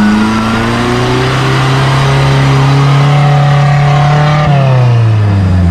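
Suzuki 4x4's engine running at high revs under load as it pushes through deep mud, the revs held steady and then falling about four and a half seconds in.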